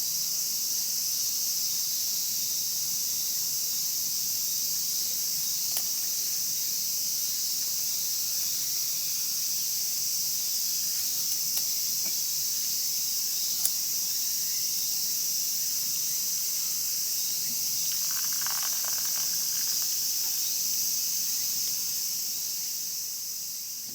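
Steady high-pitched chorus of crickets and other insects, with a few sharp crackles from a wood fire. The sound fades out near the end.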